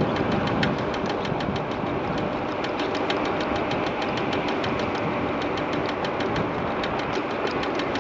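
MiniPro Mi716 electric scooter riding along, with wind and road noise and a rapid, even ticking, several a second, from the front wheel. This is the knock that the rider put down to something striking under the front fender.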